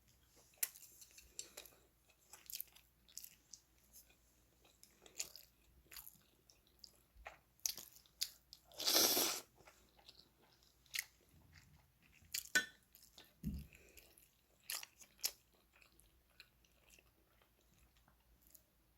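A person eating: chewing and crunching with many small scattered clicks, and one louder burst of noise about nine seconds in.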